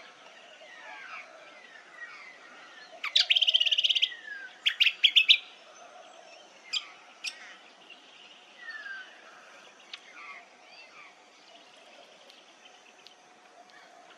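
Several wild birds singing and calling, with many faint chirps and whistles throughout. About three seconds in comes a loud, rapid trill, then a few loud, sharp chirps, and after that scattered quieter calls.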